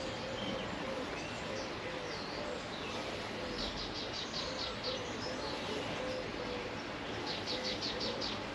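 Birds calling: a steady series of short, low cooing notes about twice a second, with two bursts of rapid high chattering, about a third of the way in and near the end.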